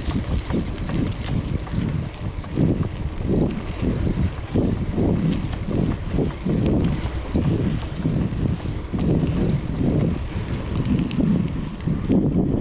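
Riding a bicycle with wind buffeting the camera microphone: a low rumble that swells and fades about twice a second.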